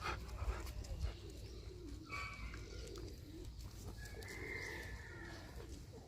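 Doves cooing in low, wavering, repeated calls, with a few higher bird calls about two seconds in and again around four seconds.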